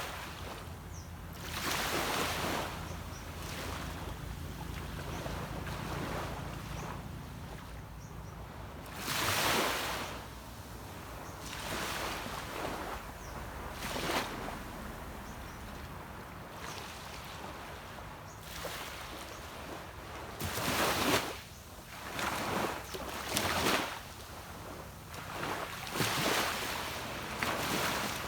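Small waves washing onto a sandy beach, each one swelling into a hissing wash and fading, about every two to five seconds, over a low steady rumble.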